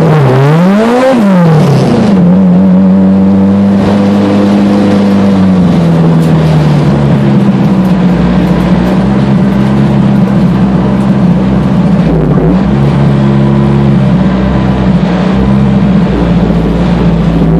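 Honda CRX's four-cylinder engine, heard from inside the cabin, revving up and down quickly in the first two seconds, then running at a steady engine speed, with a brief dip and recovery about twelve seconds in.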